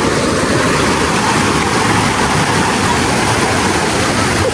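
Stream water rushing steadily, a loud, even noise with no breaks.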